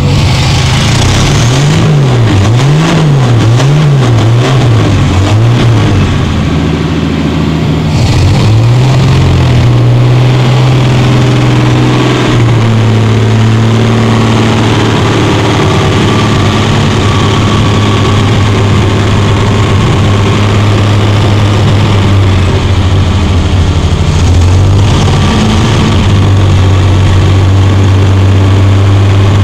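Chevrolet Opala Diplomata's inline-six engine being revved in about five quick throttle blips, then held at a raised speed for a few seconds before dropping to a steady idle. One more short rev comes near the end.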